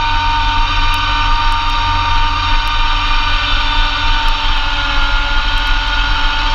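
Massey Ferguson GC2300 compact tractor's diesel engine running steadily while driving a Blizzard B48 PTO snowblower through heavy wet snow, with a steady high whine over a low rumble. The whine dips slightly in pitch midway and comes back up near the end.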